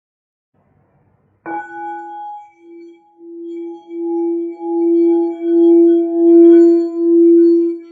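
A singing bowl struck once about a second and a half in, then kept sounding around its rim, its low ringing tone with higher overtones swelling and fading in regular pulses that grow steadily louder.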